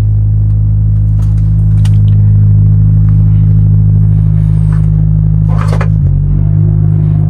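Truck diesel engine running steadily with a low, even hum; its pitch shifts slightly about six seconds in. There is a short burst of noise just before that.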